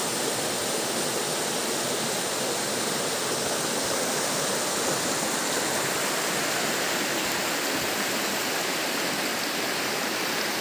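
Waterfall: a steady, dense rush of falling water crashing onto rock and pool.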